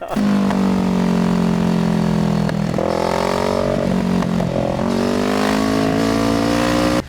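Kawasaki Z650 parallel-twin engine running through an Ixil aftermarket exhaust with one of its two baffles fitted. The engine note holds steady, dips briefly twice, then rises steadily as it accelerates, and cuts off suddenly at the end.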